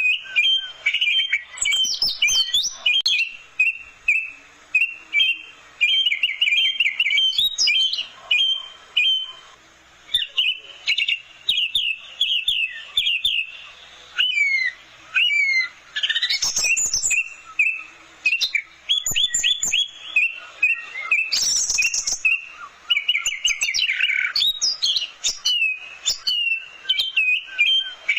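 Orange-headed thrush singing a long, rapid, varied song: runs of quick, sweeping, chattering notes in bursts with short pauses between phrases.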